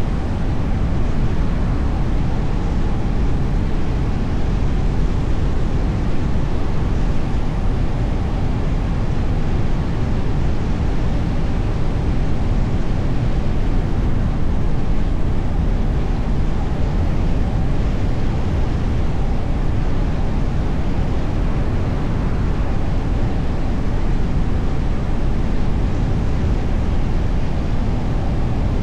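Steady low rumble of a car driving along the road: tyre and road noise with engine hum, even throughout with no distinct events.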